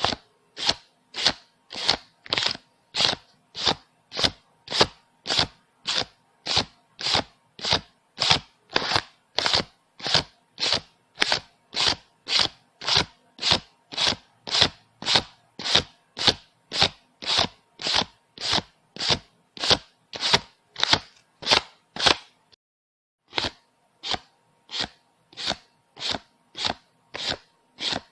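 Paper banknotes being counted by hand, one bill flicked off the stack at a time: an even run of short crisp paper snaps, about two a second, with one brief pause near the end.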